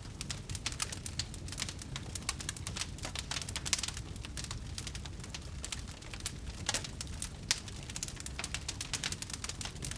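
Wood fire burning in a fireplace: dense irregular crackling and popping over a low steady rumble of the flames.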